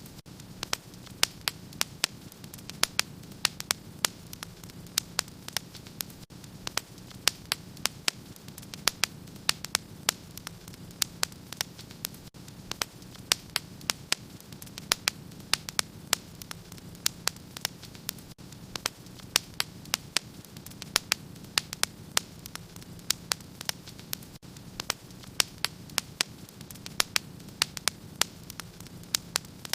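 Wood fire in a fireplace crackling: frequent, irregular sharp pops and snaps over a steady low hiss.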